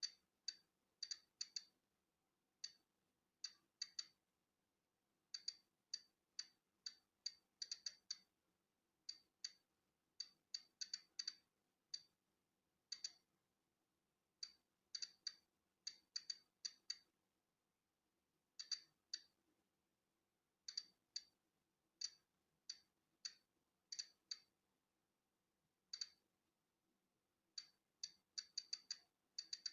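Polon EKO-C digital Geiger counter clicking at random, uneven intervals, a couple of clicks a second on average and sometimes several in quick succession. Each click is a detected particle of natural background radiation.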